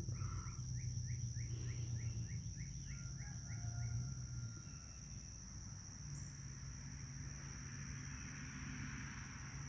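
Steady insect chorus of high continuous buzzing and a rapid pulsing trill, with a bird singing a quick series of about a dozen repeated notes, roughly three a second, during the first few seconds. A low steady hum sits underneath and drops out briefly about halfway through.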